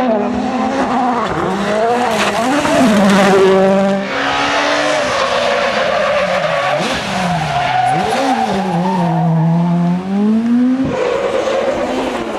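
Rally car engine revving hard through the gears, its pitch climbing and dropping sharply with each shift and lift. Near the end the note falls away and then picks up again.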